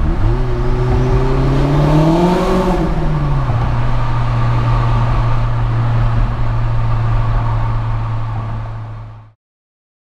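Vauxhall Astra H VXR's 2.0 turbocharged four-cylinder engine heard from inside the cabin, rising in pitch under acceleration for about two and a half seconds with a brief hiss near the top. The note then drops back and holds steady at a cruise before fading and cutting off near the end.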